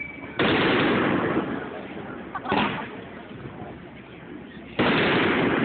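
Aerial fireworks shells bursting: two loud booms, about half a second in and near the end, with a smaller one between them, each trailing off in a long rumbling echo.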